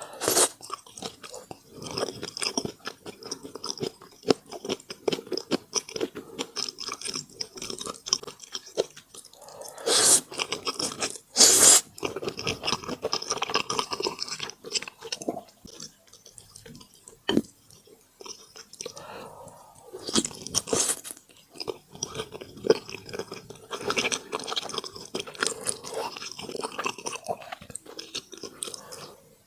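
Close-miked chewing of crisp food, a dense run of crunches and wet mouth clicks, with a few louder crunching bites about a third of the way in and again around two thirds of the way in.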